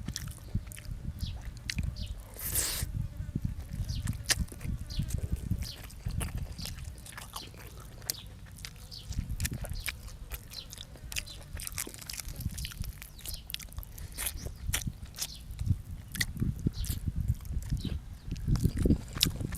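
A person chewing and biting food close to the microphone, with many quick wet mouth clicks and smacks throughout. A brief burst of noise comes about two and a half seconds in.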